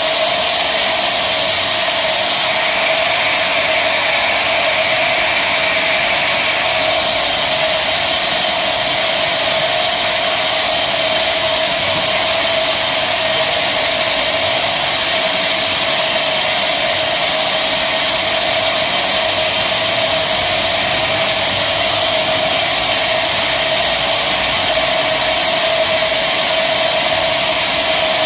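Sawmill machinery running steadily, a continuous loud mechanical whir with a constant hum that does not change in pitch or level.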